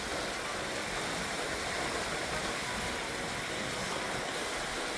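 Steady wash of small waves at the water's edge, an even hiss without distinct splashes.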